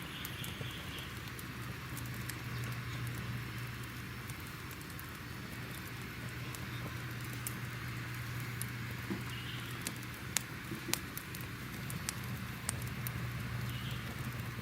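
Crackling fire ambience: irregular sharp pops and snaps over a steady hiss and a low, even rumble.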